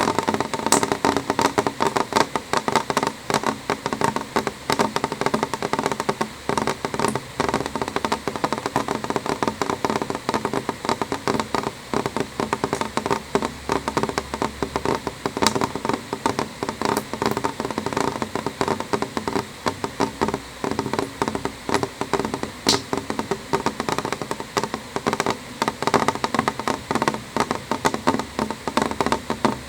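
Rain falling on a window: a dense, steady stream of drops tapping on the glass, with now and then a sharper single tick.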